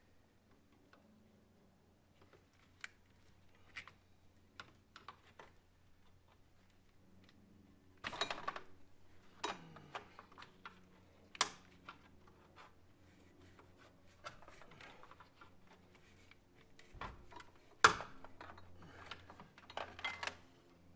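Irregular small plastic clicks and rattles of hands working a clip loose under the hood, with a few sharper snaps, the loudest about three quarters of the way through, as the clip pops out of its mount.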